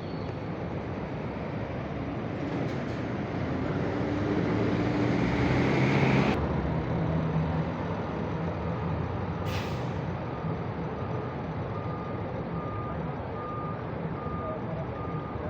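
Scania K410 coach's diesel engine running and revving up, its pitch climbing and growing louder until it drops back suddenly about six seconds in. A short hiss of released air comes near ten seconds in. A reversing beeper then sounds in steady short beeps.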